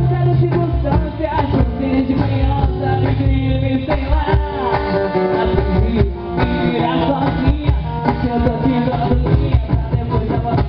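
Live band music: an instrumental stretch with a steady drum beat under pitched melody lines.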